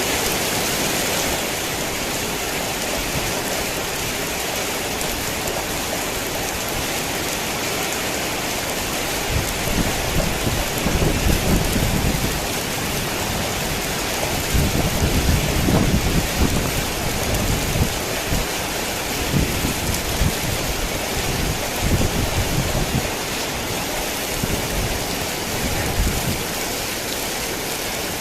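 Heavy rain falling steadily in a continuous hiss. Low rolling rumbles of thunder come and go from about a third of the way in, loudest around the middle.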